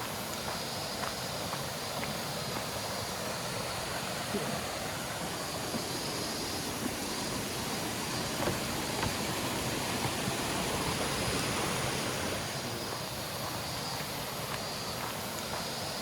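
Steady rushing of a flowing mountain stream, an even noise with faint small splashes through it.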